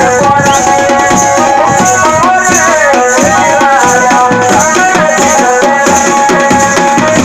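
Jaunsari folk dance music: hand drums beating a fast, steady rhythm under a wavering, ornamented melody line.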